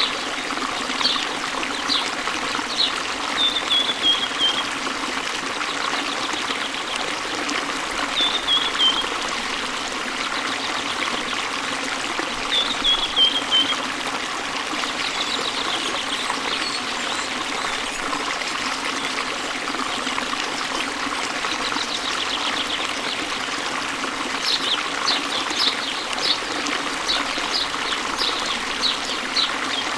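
A stream flowing and trickling steadily, with a songbird calling over it: a short falling phrase three times in the first half, and a run of quick, sharp repeated notes near the end.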